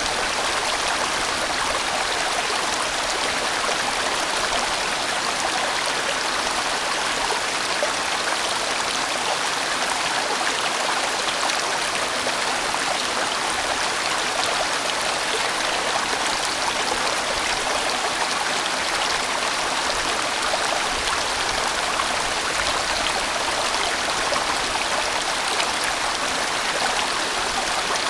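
A large mountain stream rushing steadily over rocks, a full, even water sound with no breaks.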